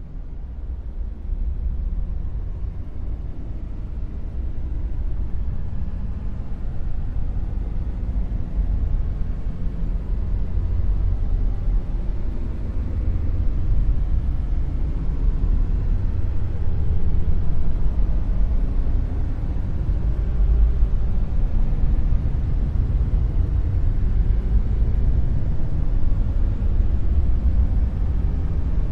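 Dark noise: a steady, deep, low rumble with almost nothing in the treble, slowly swelling louder over the first half and then holding.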